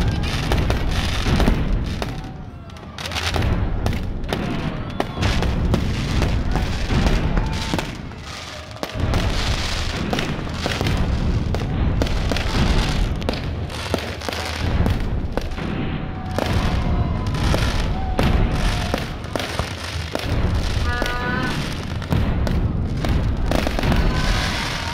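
An aerial fireworks display going off in rapid, overlapping bangs and crackling, nearly without a break, with a few short whistles late on.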